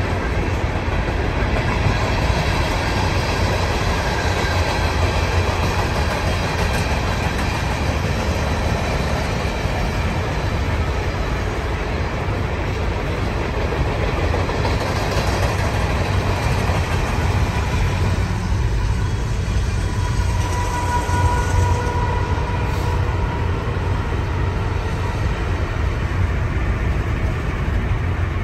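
A train running alongside, heard from a car keeping pace with it: a steady, continuous noise, heavy in the low end, with road noise from the moving car mixed in.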